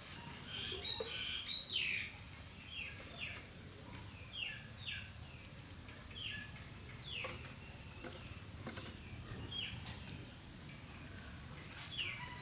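Animal chirping: a dozen or so short, high calls, each sliding down in pitch, irregularly spaced, with a cluster of louder ones about a second in.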